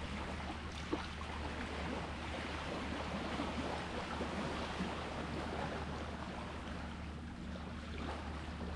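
Sea water washing and lapping steadily, over a steady low hum, with one short click about a second in.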